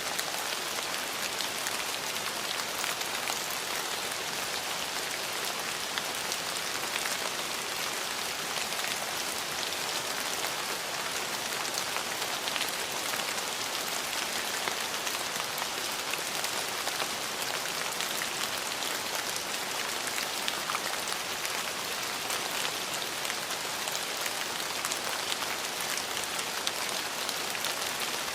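Steady rain falling on a surface, a dense even patter of many small drops with no let-up.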